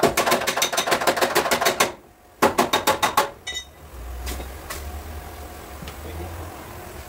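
Rapid hammer taps on car body sheet metal, about nine a second: a run of about two seconds, a short pause, then another run of about a second. A brief metallic ring follows, then a low hum with a few faint taps.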